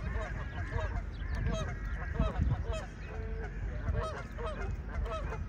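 A flock of Canada geese honking, many short calls overlapping with one another without a break.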